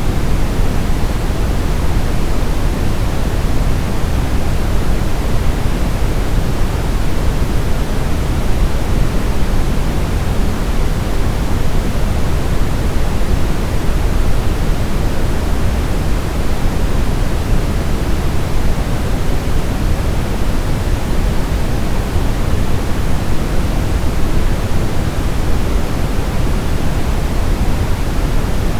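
Steady white noise, heavier in the low end than the top, with no change in level or character.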